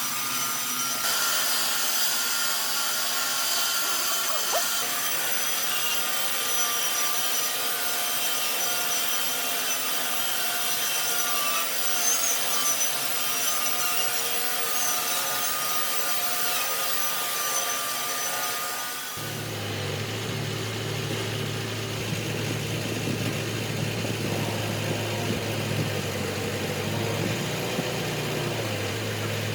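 Power tool working wood, with a high, shifting whine and rasp. About two-thirds of the way through it cuts off abruptly and is replaced by a low, steady, engine-like drone.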